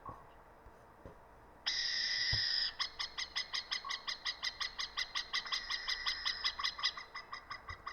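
A bird calling: a harsh, hiss-like screech that starts suddenly and lasts about a second, followed by a rapid run of short, evenly spaced notes, about four a second.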